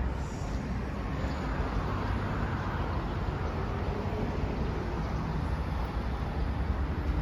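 Street ambience: a steady rumble of road traffic.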